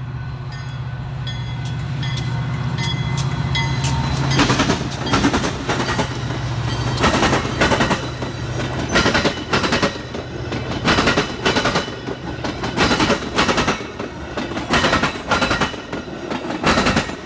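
A train passing close by: a steady low locomotive engine hum swells over the first four seconds, then the wheels clatter over rail joints in loud paired clacks every second or two as the cars roll past.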